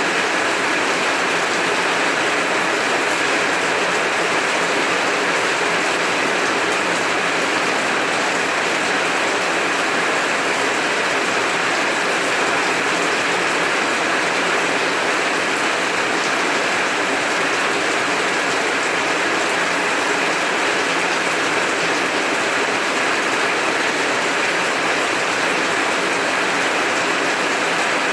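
Heavy rain falling steadily, an even unbroken hiss of water on the ground and surfaces.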